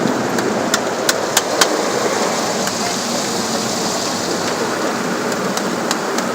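Water spray and soft-cloth brushes of a tunnel car wash washing over a car, heard from inside the car as a steady rushing wash with a few sharp taps on the body, most of them in the first two seconds.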